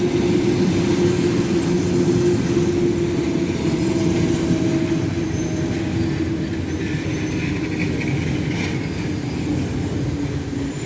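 Moscow–Sukhum passenger train rolling into the station: a steady low rumble with a held tone that sinks a little in pitch and fades slightly as the train slows.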